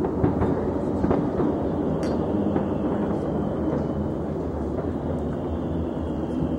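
Continuous rumble of many distant fireworks going off at once, the booms blending together with sharp cracks scattered through, the clearest about two seconds in.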